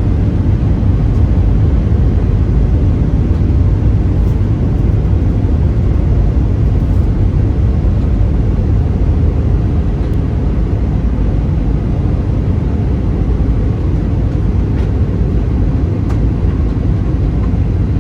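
Steady, loud low rumble of an Airbus A320 airliner heard from inside the cabin: engine and airflow noise.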